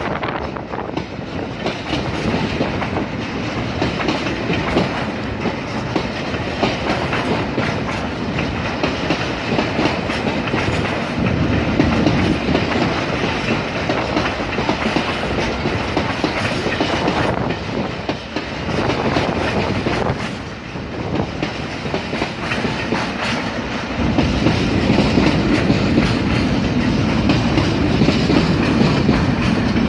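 A train running past on the rails, its wheels and cars making a continuous rolling noise. The low rumble grows heavier about two-thirds of the way through.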